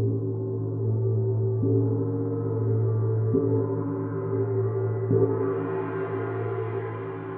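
Gong played softly with repeated strokes about every 1.7 seconds, four in all, its deep hum ringing on between them; a brighter shimmer swells up after the last stroke.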